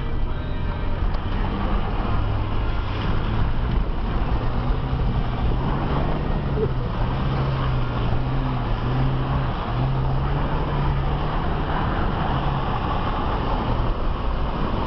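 Jeep engine running under load through deep water, its pitch stepping up and down a little, with water splashing against the body and over the windscreen, heard from inside the cab. The splashing grows louder in the second half.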